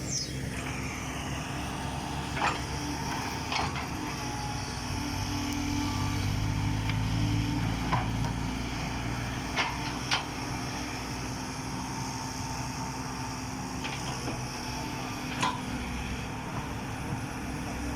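Diesel engine of a loaded dump truck running steadily under load, with scattered sharp clicks and knocks over the drone.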